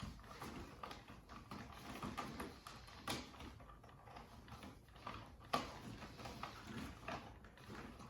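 Packaging being handled as parts are worked out of a box: irregular rustles, clicks and light knocks, with two sharper knocks about three and five and a half seconds in.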